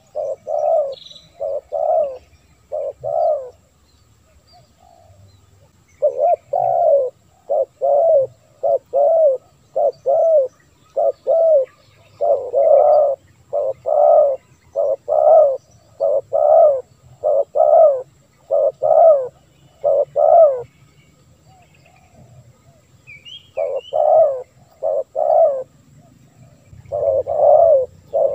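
Spotted dove (tekukur) cooing: runs of short, repeated coos, breaking off twice for a couple of seconds before starting again.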